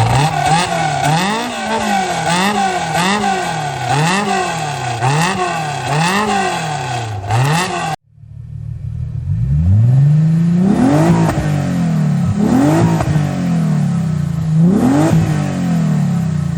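Racing car engine revving, its pitch swinging up and down about once a second. After a sudden cut about halfway, an engine accelerating through gear changes, the pitch climbing and dropping back every couple of seconds.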